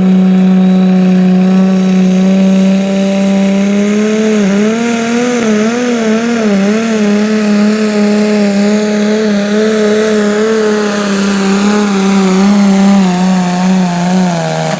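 Pro stock pulling tractor's engine running flat out under load through a pull, one loud steady note whose pitch wavers up and down about four seconds in, then sags slightly near the end before it cuts off sharply.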